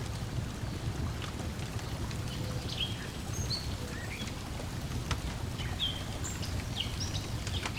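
Lakeside ambience: water lapping with a steady low wash, and scattered crackles from a wood fire. Several short, high bird chirps come in from a few seconds in.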